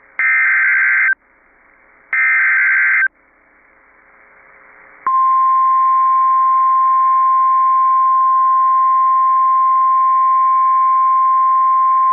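NOAA Weather Radio emergency alert signal heard over a weather radio receiver: two short, shrill warbling SAME data bursts about a second apart, with faint hiss between. About five seconds in, the steady 1050 Hz warning alarm tone begins and holds. It marks the start of a new warning broadcast.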